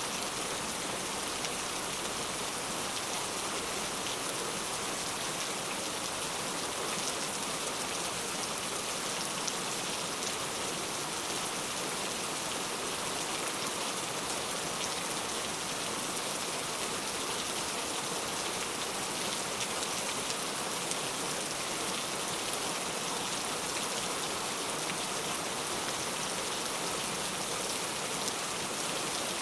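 Steady rain falling on a surface, a dense, even hiss with fine drop ticks.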